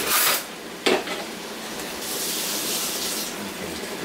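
Steak and onions sizzling in a stainless steel frying pan as a fork turns the meat, with a sharp clink of the fork about a second in. The hiss grows louder for about a second near the middle.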